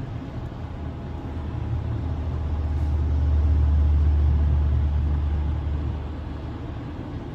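Deep vehicle rumble that swells over a couple of seconds, holds, then fades away about six seconds in, over a steady low road noise.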